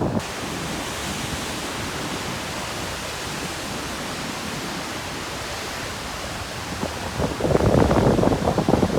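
Atlantic surf on a rocky shore. A steady hiss of churning water starts abruptly, then from about seven seconds in a louder low rumble builds as the next waves break, with wind buffeting the microphone.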